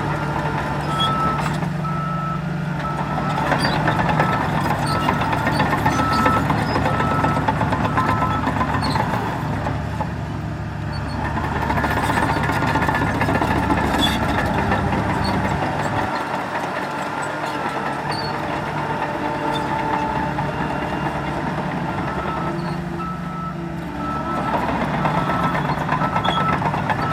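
Heavy diesel dump truck running, its reversing alarm beeping in an even on-off pattern for the first several seconds and again near the end, over the steady drone of heavy machinery working.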